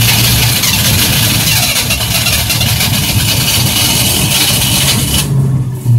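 1967 Ford Mustang GT's V8 on its first start after decades of sitting, cranked on the starter while it catches and runs roughly with the starter still engaged. The harsher upper layer of the sound cuts off about five seconds in, leaving the engine running on its own; the engine keeps stalling out.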